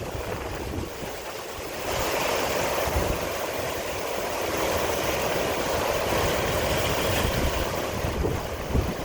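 Strong storm wind gusting, with wind buffeting the microphone; a louder rushing gust comes in about two seconds in and eases off near the end.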